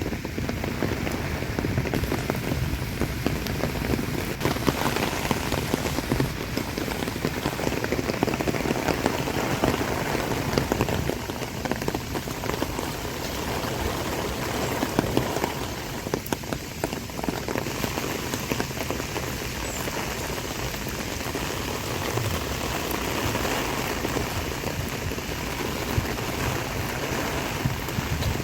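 Heavy typhoon rain falling steadily: a dense, even patter of many drops striking surfaces, with no lulls.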